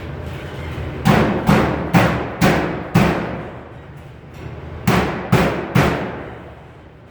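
Hammer striking sheet metal in two runs: five blows about half a second apart, a pause of about two seconds, then three more, each ringing out briefly.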